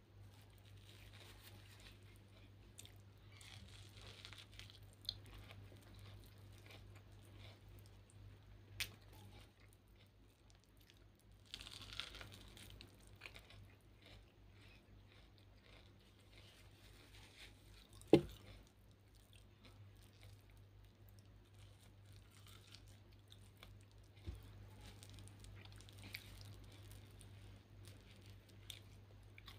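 Quiet chewing of boiled corn kernels, with small crunches and mouth clicks, over a steady low hum. One sharp knock about eighteen seconds in.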